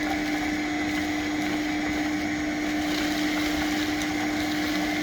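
Shop vac running steadily with one constant hum, sucking old seat material and dirt out of a car's front seat.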